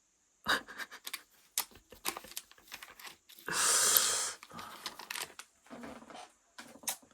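Trading-card pack wrapper being handled with crinkling and small clicks, then torn open in one loud rip lasting under a second, about three and a half seconds in.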